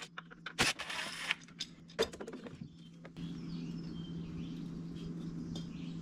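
Clicks, knocks and short scrapes of tools and parts being handled while the skid steer's fan pulley is taken apart. From about three seconds in, a steady low hum comes up, with birds chirping faintly.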